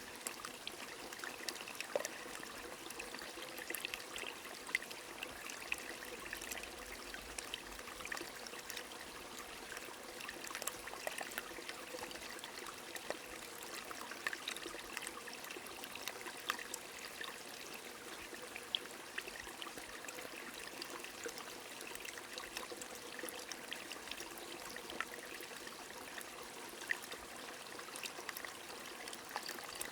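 A small stream trickling steadily under falling rain, with scattered drops ticking.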